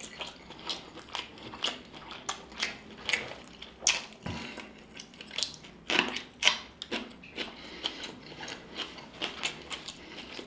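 Close-miked mouth sounds of eating: wet chewing and lip smacking with many irregular small clicks, and a louder crisp bite about six seconds in as a fresh jalapeño is bitten into.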